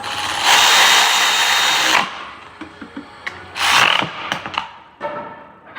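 A handheld power tool runs a bolt in, a short run of about a second and a half with a thin whine. A few metal clicks follow, then a second brief burst near the end, as a bracket is fastened back onto an ABS pump unit.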